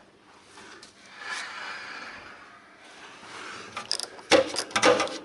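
Faint background hiss, then a quick run of sharp metallic clicks and clinks in the last second and a half, from metal parts and tools in the handbrake cable adjustment.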